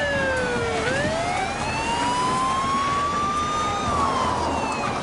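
Police car siren on a slow wail: one tone slides down, climbs slowly for about three seconds, and starts to fall again near the end.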